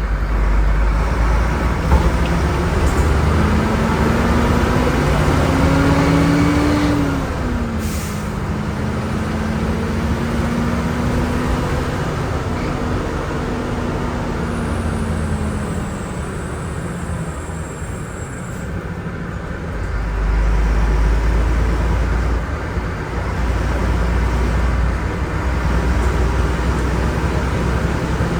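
Volvo B10M bus's diesel engine under load, its pitch rising for a few seconds and then dropping at a gear change about seven seconds in, then pulling steadily. There is a brief sharp sound about a second after the gear change, and a deep rumble swells again in the last third.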